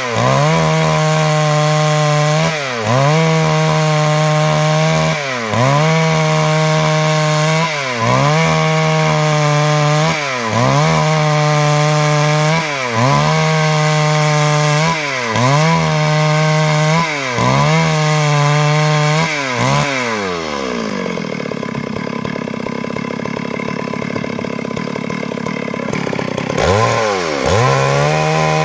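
Stihl MS 382 two-stroke chainsaw running at full throttle while cutting wood, its revs dipping briefly and recovering about every two and a half seconds. About two-thirds of the way through it drops to idle for several seconds, then revs back up to full speed.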